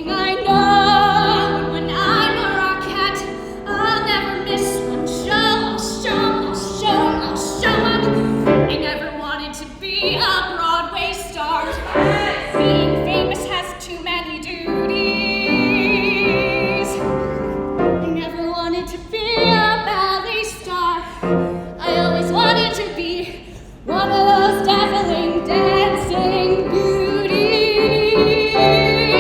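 A woman singing a musical theatre song in a trained voice with vibrato, accompanied on piano.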